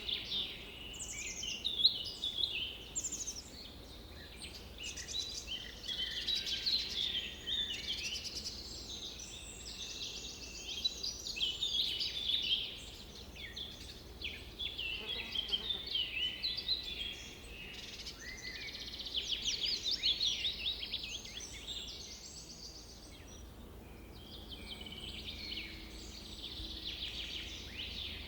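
Several birds singing at once, a dense chorus of chirps, quick down-sweeping notes and rapid trills overlapping throughout, over a faint steady background.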